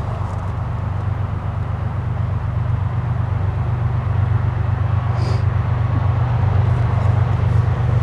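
A single diesel-electric freight locomotive approaching, its engine a steady low rumble that slowly grows louder.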